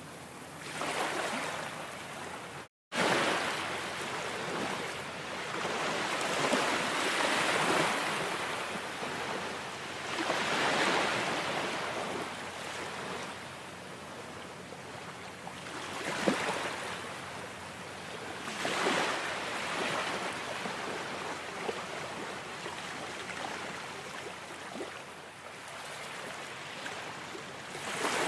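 Ocean surf: waves washing in and breaking one after another, the rush swelling and falling every few seconds. The sound drops out completely for a split second about three seconds in.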